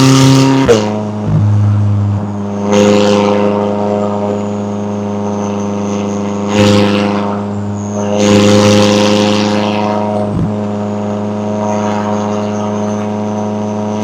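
McLaren 570S's twin-turbo V8 running at a steady engine speed, dropping in pitch with a sharp crack just under a second in. A faint high whine sits above it, and a few brief rushes of noise come and go.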